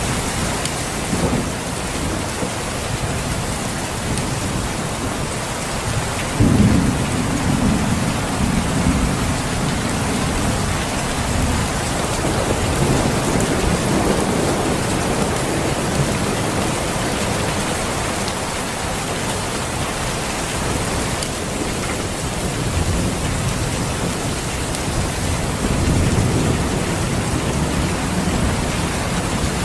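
Steady heavy rain falling on surfaces, with low rolls of thunder swelling about six seconds in and again near the end.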